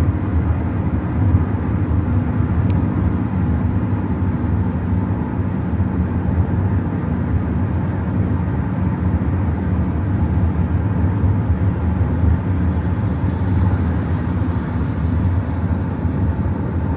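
Steady, even drone of a vehicle's motor heard from inside, with a strong low hum.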